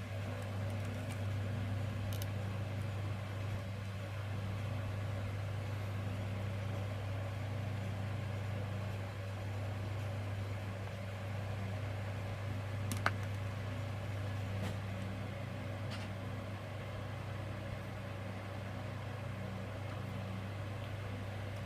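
Steady low hum, as from a fan or electrical appliance, with a few faint light clicks, the sharpest about thirteen seconds in.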